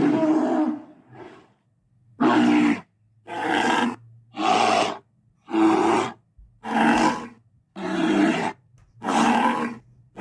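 Tyrannosaurus rex roar sound effects: a string of about eight short roars, each under a second long, coming roughly once a second.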